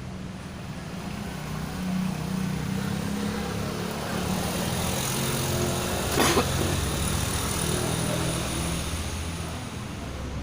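A motor vehicle engine running, growing louder then fading away, like a vehicle passing by, with a short sharp noise about six seconds in.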